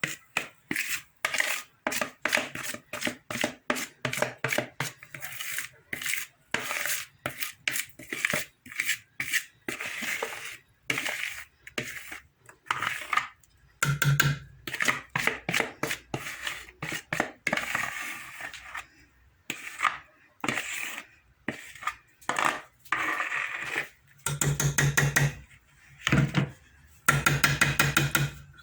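A spoon or spatula scraping and clinking against a mixing bowl and baking pan as thick semolina batter is stirred, emptied out and spread. The knocks come in quick irregular runs, thickest near the end.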